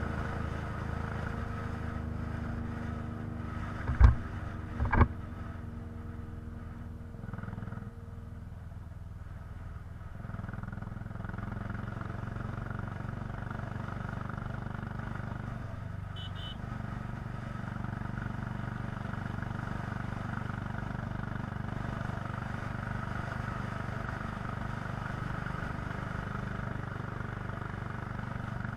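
Royal Enfield Classic 350's single-cylinder engine running steadily on the move, with two sharp knocks about four and five seconds in.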